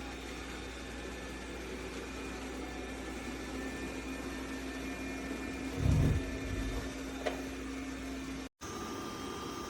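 Robot vacuum running with a steady motor hum and a held tone. There is a louder low thump about six seconds in and a short click soon after. Near the end the sound cuts out for a moment and comes back as a hum with different, higher tones.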